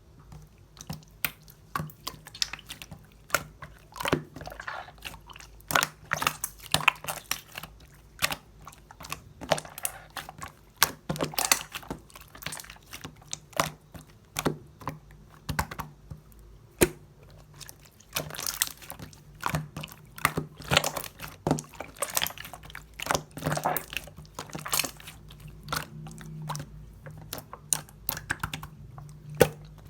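Slime being squished and pressed by hand, making irregular sticky clicks and pops, several a second, with short pauses between handfuls.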